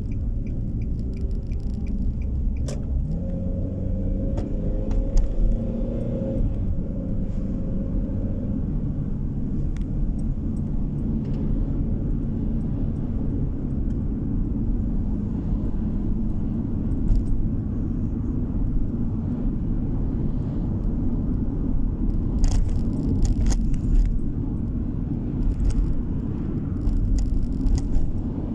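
Car driving on the road, heard from inside the cabin: a steady low rumble of engine and tyres. A few seconds in, the engine note rises for several seconds as the car accelerates, and a few short clicks or rattles come near the end.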